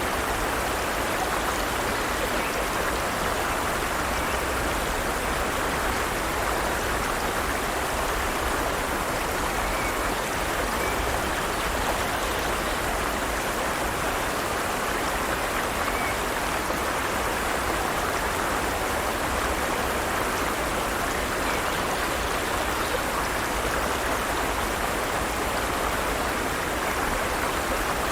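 Forest stream running steadily over rocks: an even, unbroken rush of water.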